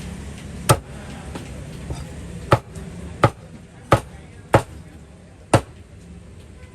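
Meat being chopped with a cleaver on a chopping board: six sharp, heavy strokes at uneven intervals.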